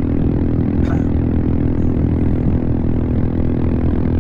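Royal Enfield Himalayan's single-cylinder engine through an aftermarket full-system exhaust, running steadily at highway cruising speed with its pitch held even.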